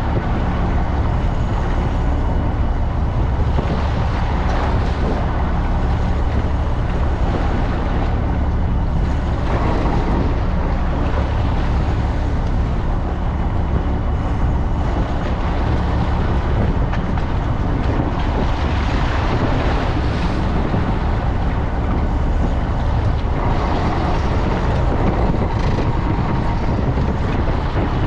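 Fishing boat's engine running steadily, with a constant rush of wind and water over it.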